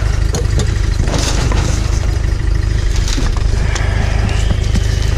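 Steady low rumble of a vehicle engine and road noise, with scattered light clicks and rattles.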